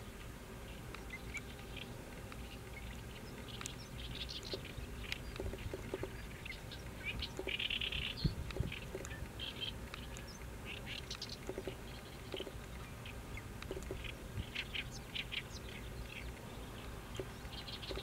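Scattered short bird chirps, with a brief dense chattering call about eight seconds in.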